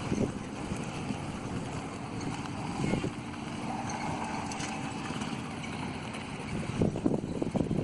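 An old kick-start motorcycle's engine running steadily as the bike rides.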